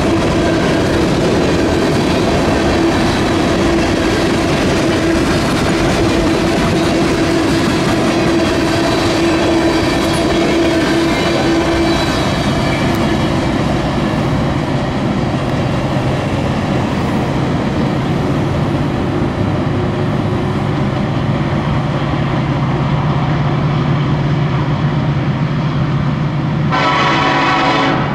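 Freight train rolling past, a steady heavy rumble of cars over the rails. Near the end a locomotive air horn sounds once, briefly.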